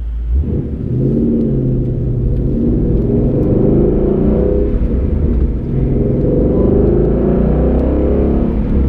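2012 Mustang GT's 5.0 V8 running, with road rumble, heard from inside the cabin while driving over bumps. No knocking comes from the rear suspension, now that the worn rear sway bar bushings have been replaced.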